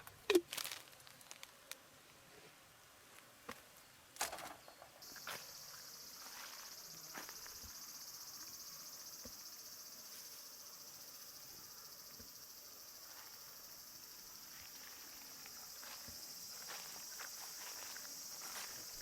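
Insects in summer woodland start a steady high-pitched chorus about five seconds in and keep it up, over scattered small clicks and knocks of handling.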